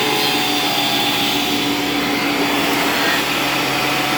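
Shop Fox 13-inch thickness planer running, a steady motor whine with a hum underneath.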